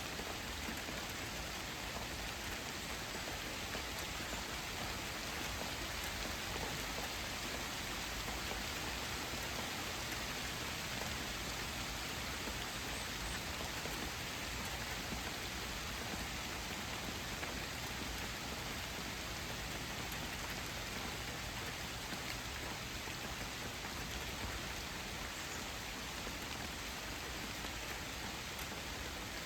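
Steady, even rain falling on surfaces, a continuous hiss with no change in strength.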